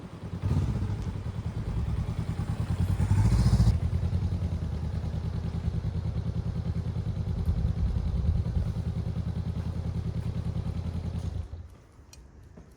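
Enduro motorcycle engine running with a rapid low pulsing beat. It revs up briefly about three seconds in, settles back to a steady run, and cuts off near the end.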